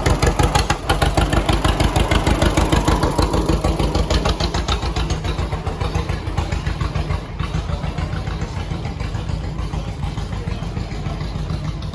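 Tractor engine running with a rapid, even beat, louder for the first few seconds and then easing off.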